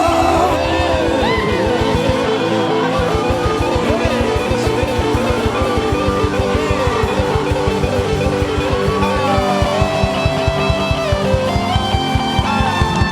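Instrumental worship music with a guitar lead over bass and a steady beat.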